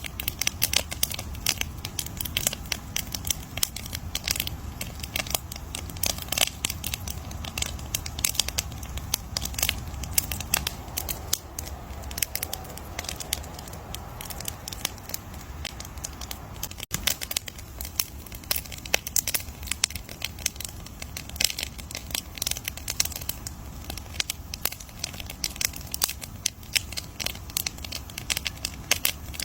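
Campfire crackling: dense, irregular pops and snaps of burning wood over a steady low rumble.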